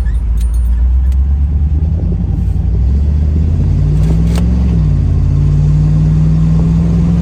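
1984 Pontiac Trans Am's V8 pulling away and accelerating. The engine pitch climbs, drops briefly about four and a half seconds in as it changes gear, then holds steady.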